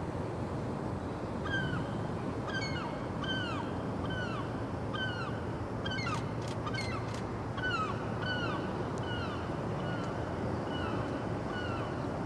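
A bird calling over and over, a long run of short calls that each slide downward in pitch, starting about a second and a half in, over a steady low rumble. A few sharp clicks come about halfway through.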